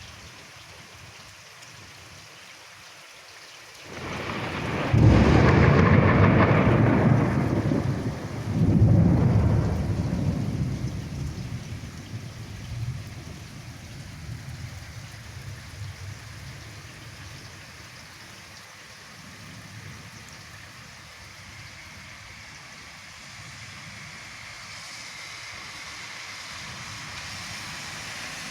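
A thunderstorm: over steady rain, a peal of thunder builds about four seconds in, rumbles loudly with a second swell a few seconds later, then dies away over several seconds while the rain keeps falling.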